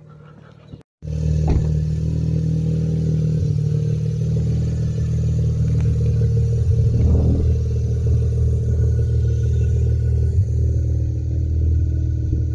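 Car engine running steadily at an even pitch, starting abruptly about a second in.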